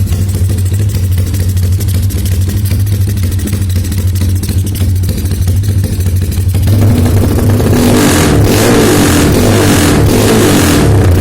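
Honda Megapro motorcycle with a racing exhaust running at a steady low idle, then revved up about seven seconds in. From about eight seconds the revs give a pulsing, helicopter-like chop.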